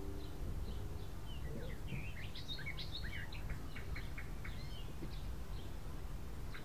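Birds chirping, with scattered calls and short quick runs of notes, over a low steady outdoor rumble. The tail of a guitar piece fades out in the first moment.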